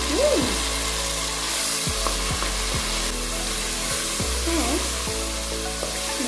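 Freshly added chopped tomatoes and fried onions sizzling in hot oil in a pot, stirred with a wooden spoon.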